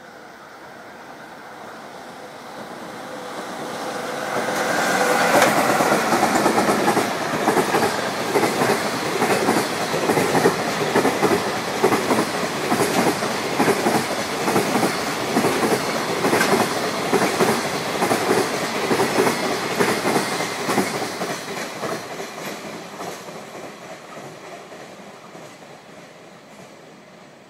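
Container freight train hauled by an EF66 electric locomotive passing at speed. It builds over about five seconds, then the wagons clatter rhythmically over the rail joints for about fifteen seconds before the sound fades away.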